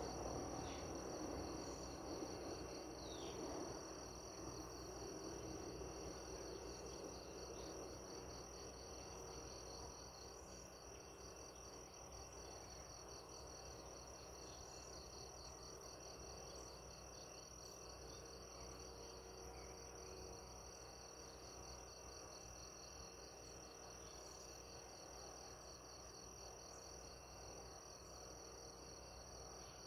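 Insects chirring, likely crickets: one continuous high trill and a second, evenly pulsing high trill running together. A few faint bird chirps come in the first few seconds over a soft background hush that fades away by about ten seconds in.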